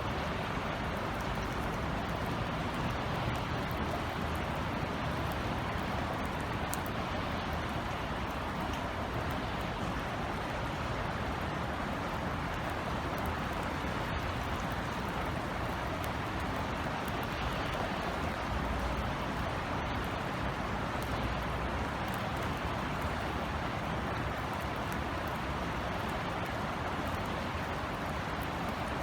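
Steady light rain, a gentle drizzle pattering on outdoor surfaces, with a low steady rumble of city traffic underneath.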